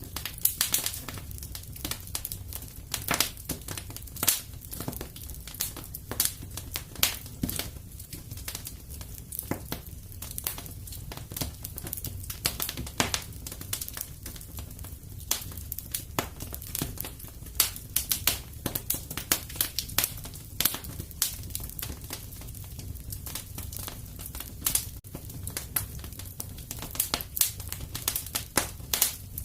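Wood fire crackling: frequent sharp irregular pops and snaps over a steady low rumble of burning.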